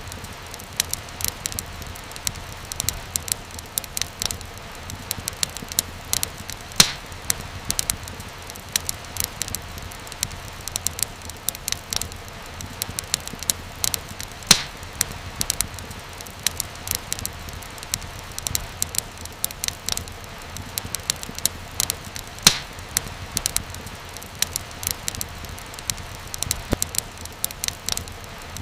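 Wood fire crackling steadily: frequent small snaps and clicks with a few louder pops, over a low steady rumble of the flames.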